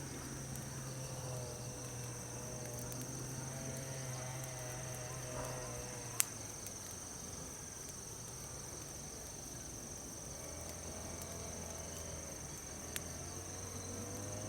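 Field insects, crickets by their sound, trilling steadily in a continuous high tone. A single sharp pop comes about six seconds in and a fainter one near the end.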